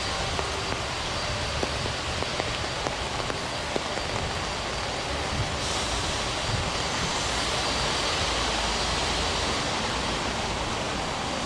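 Heavy rain falling on a city street, a steady hiss with scattered sharp drop ticks in the first half. About halfway through the hiss swells and brightens for several seconds.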